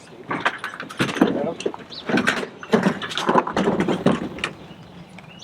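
Indistinct talking, mixed with scattered sharp clinks and knocks from parts being handled.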